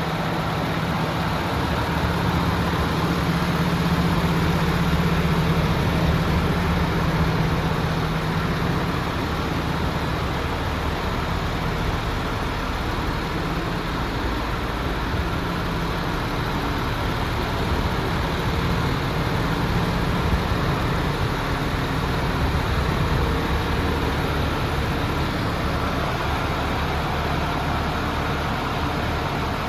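Diesel engine of a MAN TGX 26.480 Euro 6 truck tractor unit running steadily at idle, a little louder in the first several seconds.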